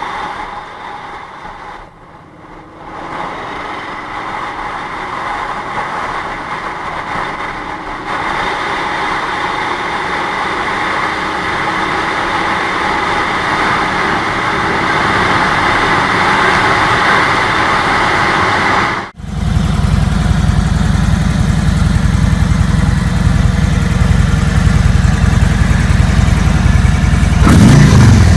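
Cruiser motorcycle engine sounds in edited clips: the engine runs with a slowly rising pitch, then after an abrupt cut a louder, deep exhaust rumble at idle, revved up near the end.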